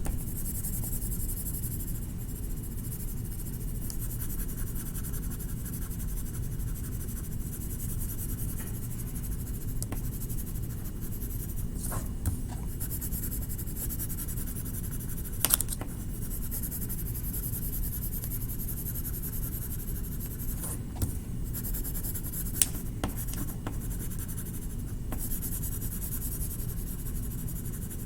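Continuous scratchy strokes of a colouring tool rubbing back and forth on paper as an area is shaded in, with a few sharp taps now and then.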